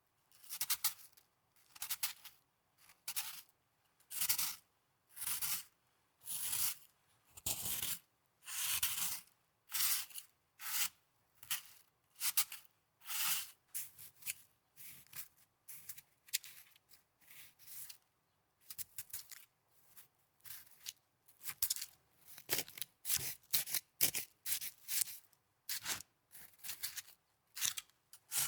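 Snow crunched and squeezed again and again, one crisp crunch after another with short gaps between. The crunches come about once a second at first, then shorter and quicker, about two a second, in the second half.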